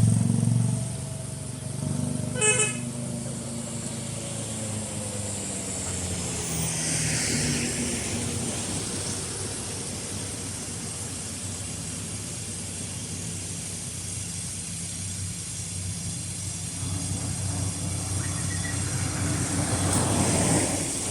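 Road traffic passing, with engines running steadily and vehicles going by, one around six to eight seconds in and another building near the end. A short horn toot sounds about two and a half seconds in.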